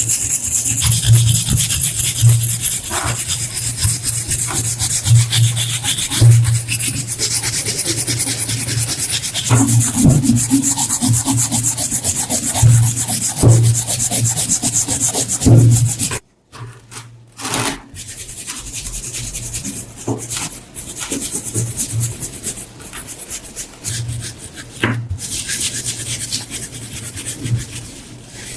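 Rough rubbing and scraping on rusty metal in repeated strokes, typical of hand cleaning of rust off the seized antique screw jack. It cuts off suddenly about halfway through, then resumes more quietly.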